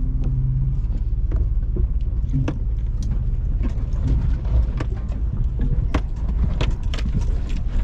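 Car driving over a rough, broken road: a steady low rumble with irregular knocks and rattles as it bumps along.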